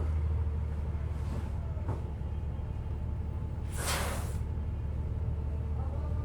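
Passenger bus riding along, its engine and drivetrain giving a steady low rumble with a faint steady hum above it. About four seconds in comes a short, loud hiss lasting about half a second.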